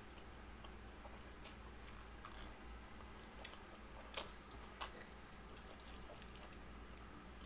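Close-miked eating of Samyang instant noodles: chewing with short, wet mouth clicks and smacks, the sharpest about a second and a half in, around two seconds, and twice between four and five seconds.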